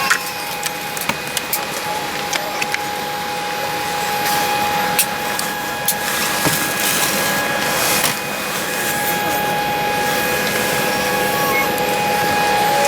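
Cabin ambience of a Boeing 787-8 airliner on the ground during boarding: a steady air-system hiss with a constant hum, and scattered clicks and knocks from passengers and luggage around the seats.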